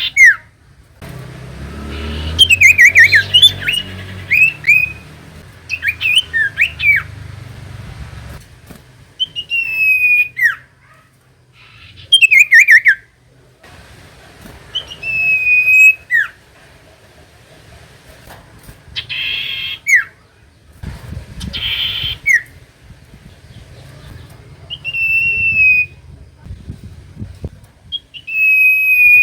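Common iora singing: repeated clear whistled phrases whose notes slide down in pitch, broken by a couple of short harsh, buzzy calls in the second half. A low rumble runs under the first few seconds.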